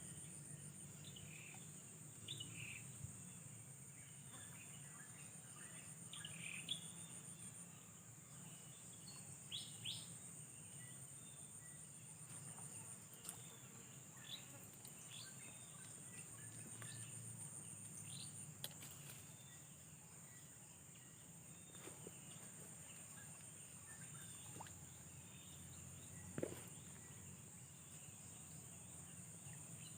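Faint ambience: a steady, high-pitched insect trill that pulses evenly, with short bird chirps scattered through it.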